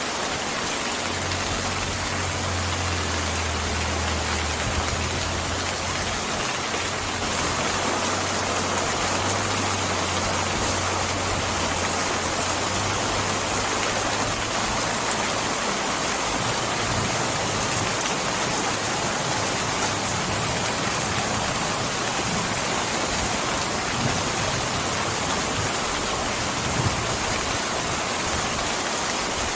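Steady, even rain falling, heard as a continuous hiss. A low rumble sits under it from about a second in until about halfway through.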